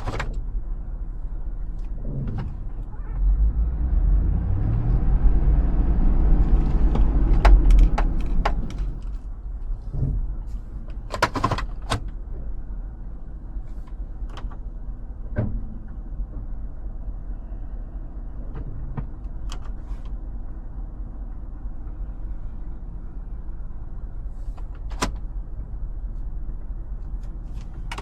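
Hummer H2's 6.0-litre V8 under a steady low rumble, revving up with rising pitch for several seconds as it accelerates, then easing back to a steady drone. Scattered sharp clicks and knocks occur throughout.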